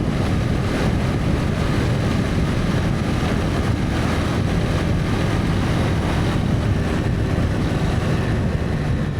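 Honda CB300F motorcycle riding along at a steady pace, its engine running with an even, low rushing sound.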